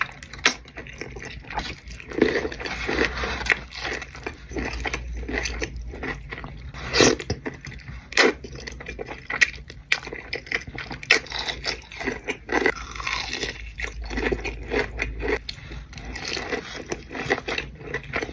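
Close-up mukbang eating sounds: a person biting and chewing food, with irregular sharp clicks and wet smacks coming a few times a second.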